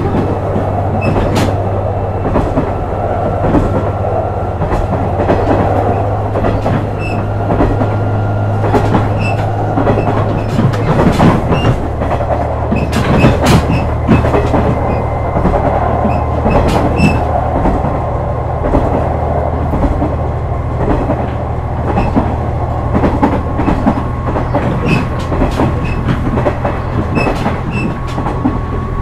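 Running sound inside a KiHa 126 series diesel railcar under way: the diesel engine hums steadily while the wheels click rhythmically over rail joints. The engine note shifts about eleven seconds in, with a short stretch of heavier knocking from the wheels.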